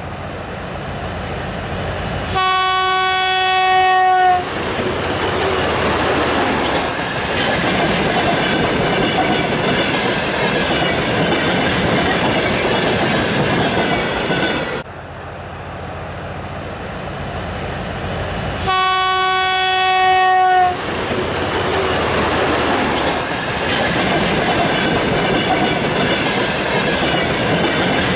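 A diesel locomotive sounds its horn in one steady blast of about two seconds as it approaches, then the train of tank wagons runs past close by, loud and steady. After a sudden cut about halfway through, the same horn blast and passing train are heard again.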